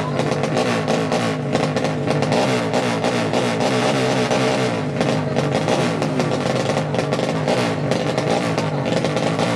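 Several drag-racing motorcycle engines running at once, their revs rising and falling over and over in a steady din.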